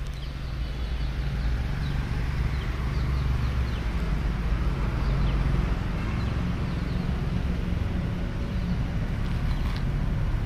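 A motor vehicle's engine running at idle, a steady low hum, with birds chirping faintly and repeatedly.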